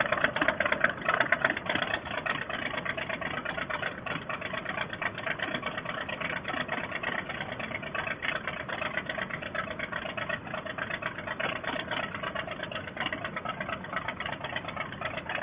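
Harley-Davidson V-twin motorcycle engine running steadily as a dense stream of fast, even firing pulses, heard through a Bluetooth helmet audio pack whose narrow sound cuts off all treble.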